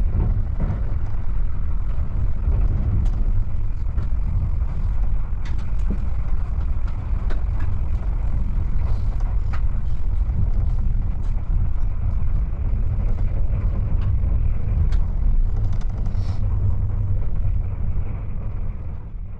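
Kintetsu 80000 series Hinotori limited express heard from inside the passenger car while running: a steady low rumble of the train on the rails with occasional faint clicks, fading out near the end.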